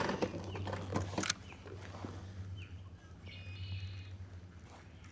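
Quiet outdoor sound with a sharp click about a second in and a short bird call a little past the middle.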